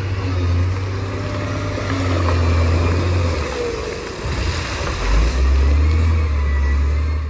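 Bulldozer's diesel engine running steadily, its pitch dropping a little about four seconds in.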